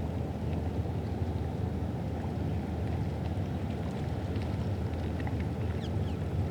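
Riverside morning ambience: a steady low rumble, with a few faint high chirps toward the end.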